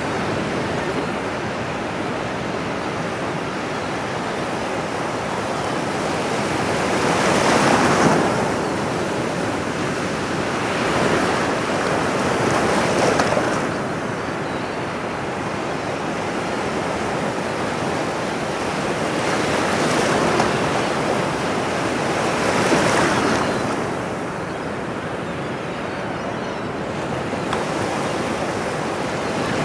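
Ocean surf: a steady wash of waves, swelling and fading, with about four louder breakers rolling in.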